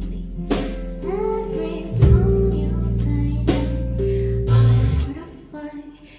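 Live indie pop song: a woman singing over electric guitar and bass, with sharp cymbal-like hits. About five seconds in the bass and band drop away, leaving a quieter, sparser passage.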